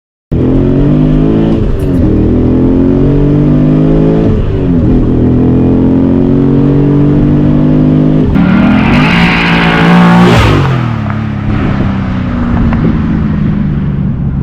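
Cadillac CTS-V's LS2 V8 through its aftermarket exhaust, accelerating hard through the gears. The engine pitch climbs and drops at three upshifts, then falls away near the end as the throttle eases off.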